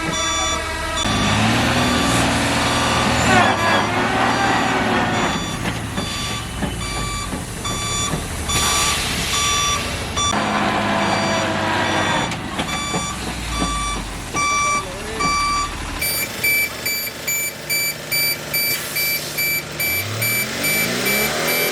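Heavy truck's reversing alarm beeping over and over while its diesel engine runs, as the truck backs up to get round a tight hairpin turn.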